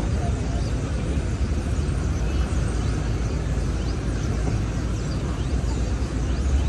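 Steady city street traffic noise: a continuous low rumble of vehicles, with no single event standing out.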